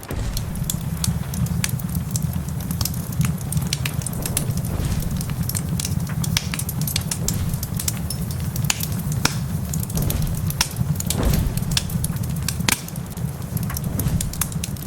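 Wood fire crackling, with many sharp irregular pops and snaps, over a steady low rumble.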